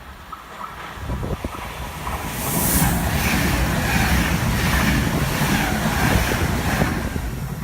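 A train approaching and passing at speed: a deep rumble and rushing of wheels on rail that builds from about a second in and stays loud from about two and a half seconds in.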